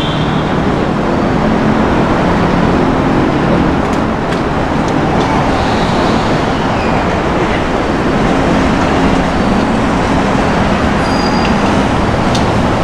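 Electric train rumbling as it approaches along the track through the covered station, a steady, even rumble with a faint low hum and a few light clicks.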